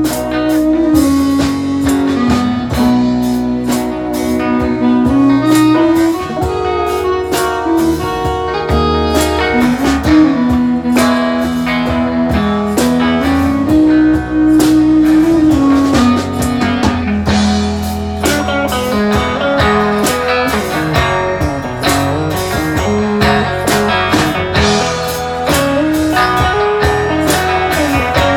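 A live band playing an instrumental stretch of a blues-style song, with guitar leading over bass and drums.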